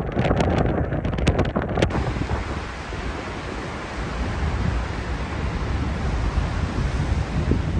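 Strong gale wind buffeting the microphone, with rumbling gusts and crackles for about the first two seconds, then a steady rushing hiss of wind.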